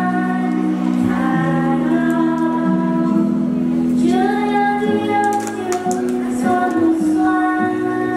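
Youth chorus singing a slow song in unison, with sustained instrumental accompaniment underneath.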